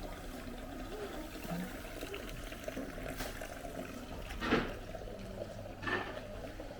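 Street ambience on a walk through town: a steady wash of background noise with a faint murmur of voices, and two short clattering knocks, about four and a half and six seconds in.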